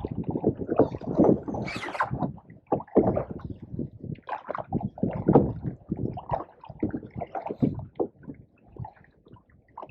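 Canoe being paddled: irregular splashes and swishes of the paddle with water moving along the hull.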